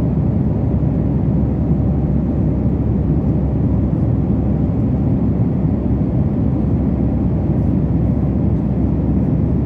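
Steady engine and airflow noise inside a passenger airliner's cabin in flight, an even rumble without changes.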